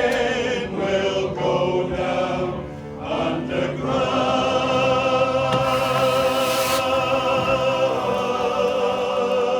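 Choral music: a choir singing, settling about four seconds in onto one long held chord with a wide vibrato.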